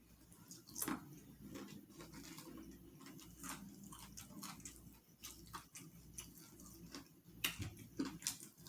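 Close-up eating sounds: chewing with irregular wet mouth clicks and lip smacks, loudest a second in and twice near the end.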